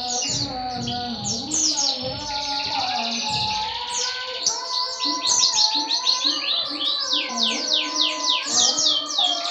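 Canary song used as a tutor recording: fast trills of repeated high notes that each sweep downward, quickening to about six or seven a second in the second half, over background music.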